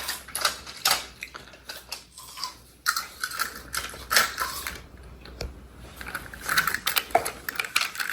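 Plastic toy train set pieces clicking and rattling irregularly as they are handled and fitted together.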